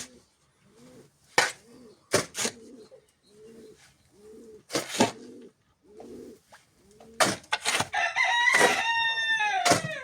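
A rooster crows once near the end, a long loud call that falls in pitch at its close. Doves coo softly through the rest, and several sharp knocks sound in between.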